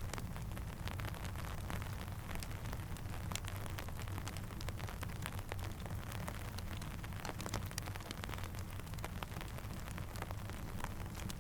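Steady rain and a crackling campfire: a continuous hiss over a low rumble, with frequent small sharp pops and ticks scattered throughout.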